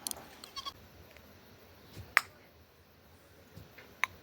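A few sparse, sharp clicks over a faint background, the loudest about two seconds in and another near the end.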